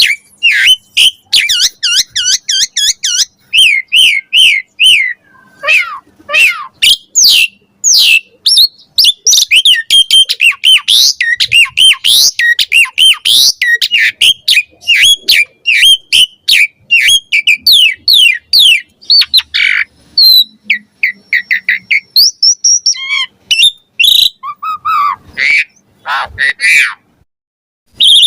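Javan pied starling (jalak suren) singing in full song, a fast, unbroken run of varied whistles, chirps and harsh squawky notes, falling briefly silent near the end.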